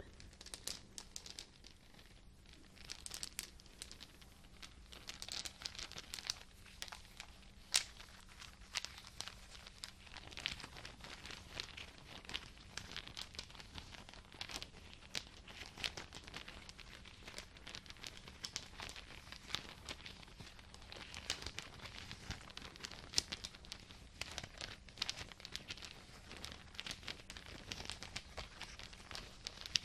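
Crinkly material being handled and crumpled close to the microphone: a dense, irregular run of small crackles with a few louder snaps.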